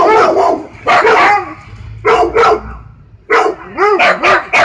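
Siberian husky barking: a series of short, pitched barks, coming closer together in the last second or so.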